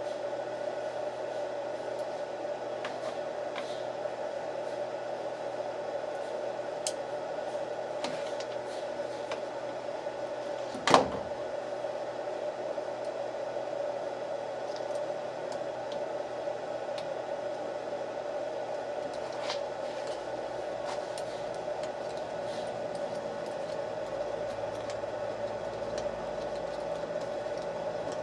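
A steady background hum with scattered light clicks and taps of a hex key working on the post hole digger's recoil starter housing, and one sharp knock about eleven seconds in.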